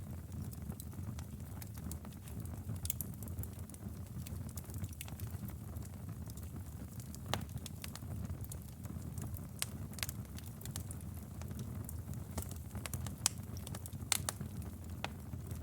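Campfire burning: a steady low rumble of flames with scattered crackles and a few sharper pops of burning wood.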